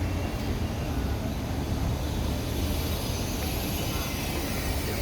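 Steady exhibition-hall background noise: an even wash of crowd and room noise over a constant low rumble, with no distinct events.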